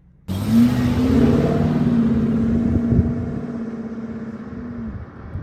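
Lexus SC430's V8 engine and exhaust running at a steady pitch, cutting in abruptly and easing off near the end.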